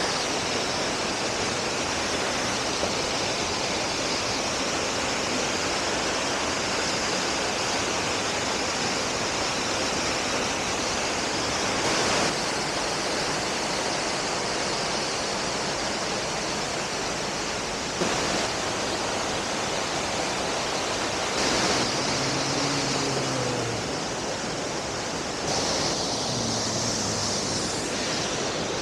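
Steady rushing of a waterfall, an even unbroken noise of falling water with a few slight jumps in level.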